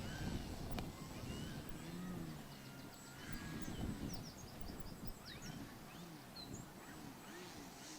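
Wild birds chirping and calling in short rising and falling notes, with a quick run of short high notes about halfway through, over a low rumble of wind on the microphone.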